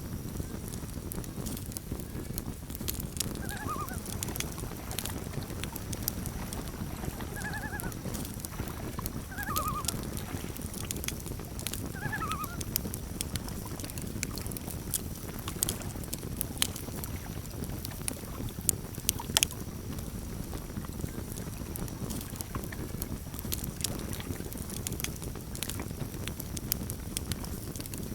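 Campfire crackling, with a steady low rush of flames and sharp pops scattered throughout. Between about three and thirteen seconds in, several short wavering calls of common loons.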